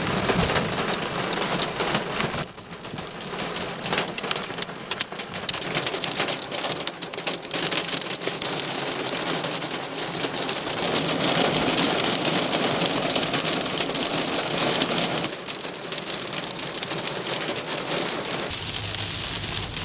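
Heavy rain pelting down, a dense patter of drops striking a hard surface, easing briefly a couple of seconds in.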